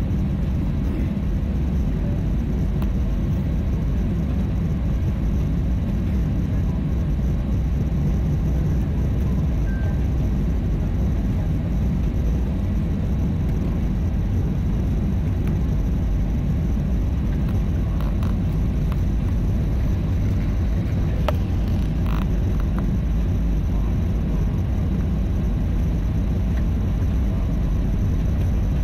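Steady low rumble inside an airliner cabin on the ground: engine and cabin air noise with no break, and a few faint clicks around the middle.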